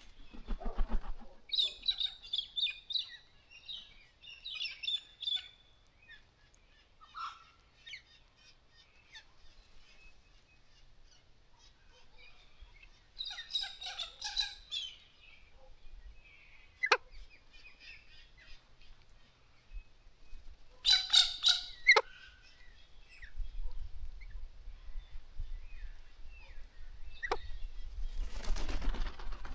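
Galahs calling in scattered bursts of high chattering, with a few sharp, quickly falling calls between them. A rushing noise swells near the end.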